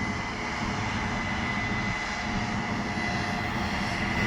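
A Class 8 Case combine harvester running while harvesting soybeans, a steady distant drone with a thin, constant high whine over it.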